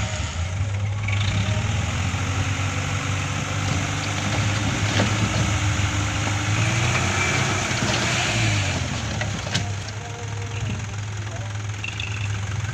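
Dump truck's diesel engine running, its revs climbing about a second in, held higher, then dropping back near the nine-second mark.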